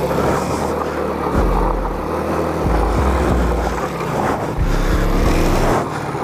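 Suzuki GN125's small single-cylinder four-stroke engine running steadily as the motorcycle is ridden, with gusts of wind rumbling on the microphone.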